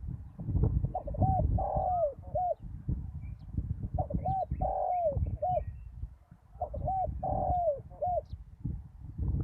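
Spotted dove cooing: three repeated phrases of several arched coo notes, over a low rumble.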